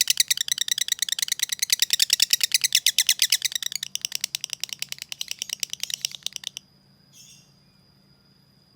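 Lovebird's long rapid chattering call, a fast, even string of sharp ticks that runs on for about six and a half seconds and stops abruptly. A single faint chirp follows.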